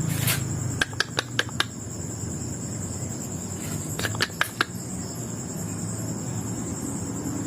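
Blue-crowned hanging parrots giving short, sharp chirps in two quick runs of four or five, over a steady high-pitched insect whine.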